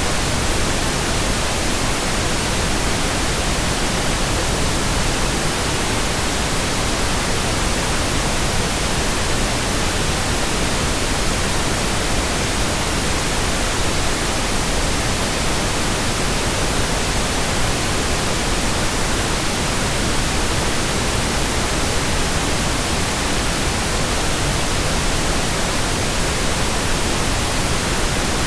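Steady, even synthetic noise with no changes or events: the white noise of a baby sleep track.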